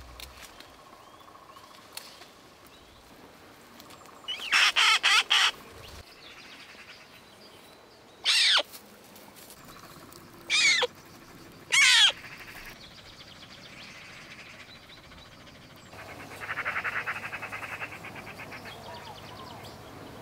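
A black-and-white bird giving loud, harsh calls: a quick run of about four about a quarter of the way in, then three single calls falling in pitch in the middle, and a chattering rattle near the end.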